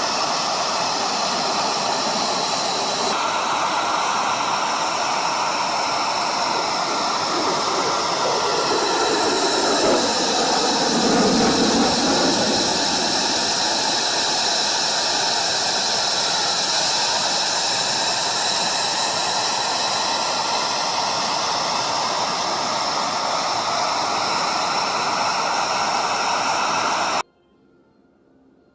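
Jet aircraft engine noise, loud and hissing, with a jet passing close about eleven seconds in, its pitch sweeping down and back up as it goes by. The sound cuts off abruptly shortly before the end, leaving near silence.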